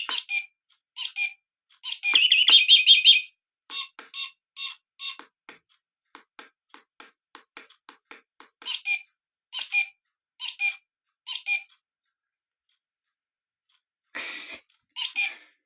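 Battery-powered bird clock playing a recorded bird call through its small speaker: a short trill, a run of quick faint clicks, then a series of short repeated chirps, a pause, and more chirps.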